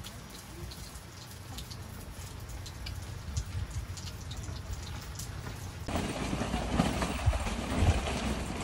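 Rain falling, with scattered drops tapping over a steady low rumble. About six seconds in it changes abruptly to louder, denser rain noise.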